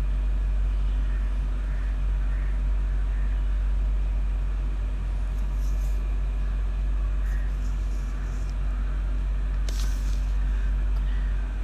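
Steady low rumble, with a few faint brief clicks about halfway through and again near the end.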